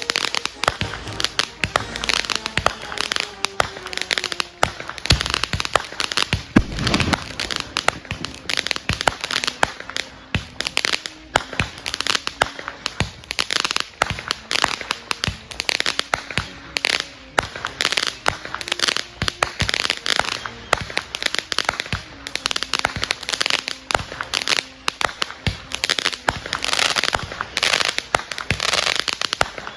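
Consumer fireworks going off: dense, continuous crackling and popping, with a heavier bang about seven seconds in.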